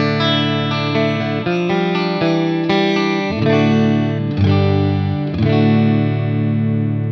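Electric guitar with Leosounds Fireball pickups played clean through a Fender Bassman amp: chords and single notes picked one after another, each ringing on into the next.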